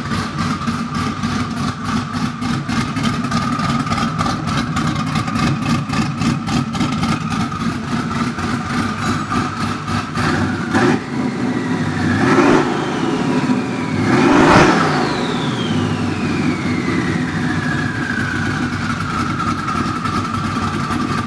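Twin-turbo Ford Mustang 4.6-litre two-valve V8 running on open downpipes, idling with a steady whine. Around the middle it is revved three times, about two seconds apart, the last the loudest. After the last rev a whistle falls over several seconds as the turbos spin down.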